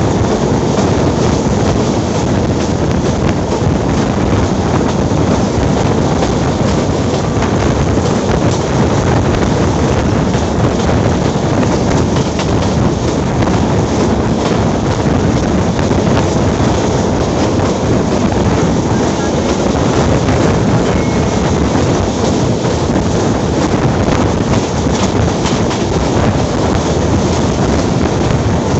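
Wind blowing hard on a microphone held out of a Pakistan Railways passenger coach's window, over the steady running noise of the coach's wheels on the rails at speed. Loud and even throughout, with no distinct knocks or horn.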